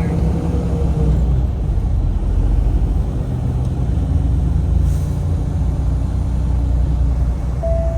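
Semi-truck diesel engine and road noise heard from inside the cab: a steady, heavy low rumble. A brief beep sounds near the end.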